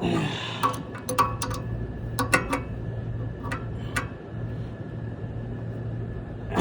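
Scattered sharp metallic clicks and taps of hand tools working on a condenser fan assembly, over a steady low hum of running machinery.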